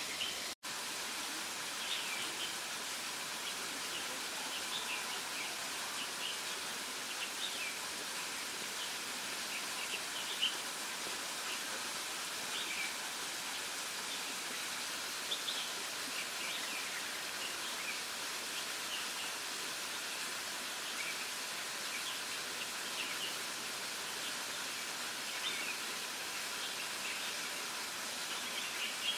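Birds chirping: many short, scattered calls over a steady outdoor hiss, with a brief cut to silence about half a second in.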